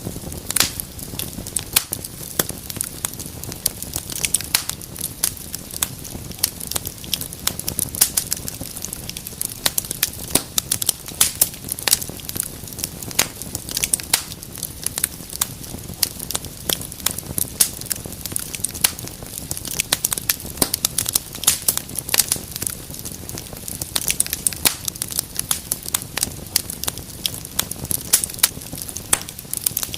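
Wood fire crackling in a fireplace: a dense, irregular run of sharp pops and snaps over a steady low rumble of flame.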